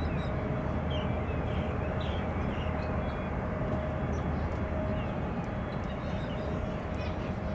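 Steady low rumble of jet aircraft engines running at an airport, with a faint steady whine held throughout.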